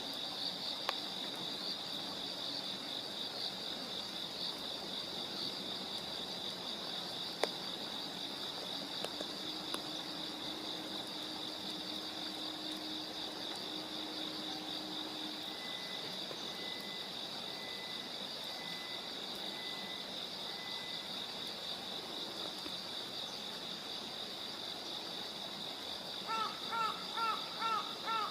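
Steady insect chorus, a continuous high pulsing trill of crickets or similar singing insects. Near the end comes a quick series of about eight short, rising pitched calls.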